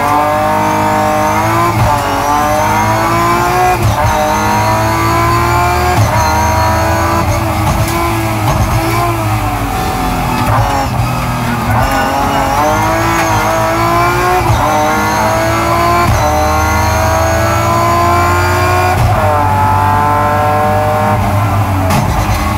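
Rally car's engine heard from inside the cabin, accelerating hard through the gears. Its pitch climbs, drops at each upshift and climbs again, over and over.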